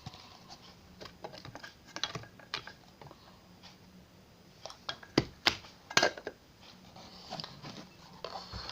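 Scattered light clicks and taps at an irregular pace, with a few sharper, louder taps about five to six seconds in, over a faint steady hum.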